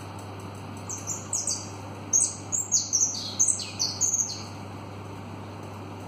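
A songbird singing a quick run of about a dozen short, high, falling chirps, starting about a second in and lasting some three seconds, over a steady background hiss.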